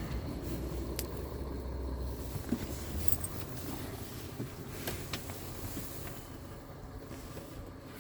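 Diesel engine of a Scania R tractor unit running with a low, steady rumble that eases about three seconds in. A few sharp clicks or knocks sound over it.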